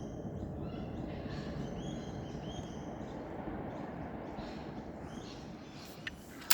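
Birds calling in short high chirps over a steady rush of wind noise, with one sharp knock right at the end.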